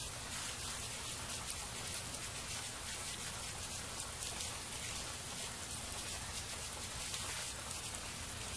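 Steady rain falling, a dense patter of individual drops hitting.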